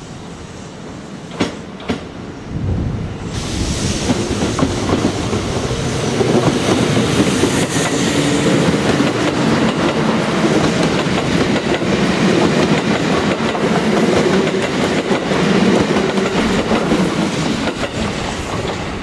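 A Kintetsu limited express electric train running along the platform, its wheels clattering over the rail joints. The sound builds about three seconds in, stays loud, and fades near the end. Two sharp clicks come just before it.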